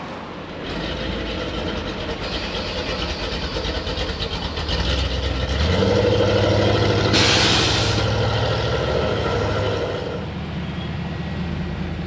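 Truck engine running, stepping up to a louder, higher pitch about halfway through and settling back down near the end. A short burst of hiss comes during the louder stretch.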